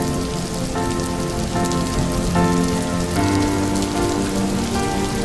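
Steady rain falling on a surface, with soft music over it whose notes change about every second.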